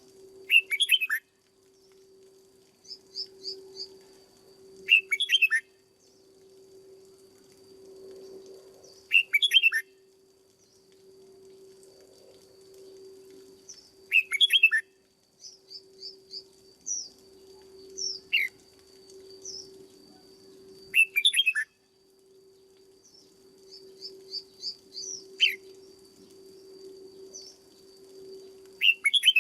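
Red-whiskered bulbul singing short, loud phrases about every four to five seconds, with softer chirps in between. A steady faint hum runs underneath.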